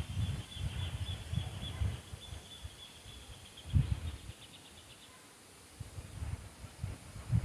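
Wind gusting against the microphone in uneven low rumbles, dying down briefly about two-thirds of the way in and picking up again near the end. Over it, a high pulsing trill from a small animal runs for the first few seconds and then stops.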